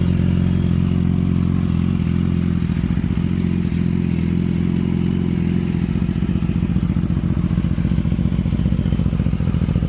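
BMW S1000RR's inline-four engine with an aftermarket Arrow exhaust, idling steadily just after start-up.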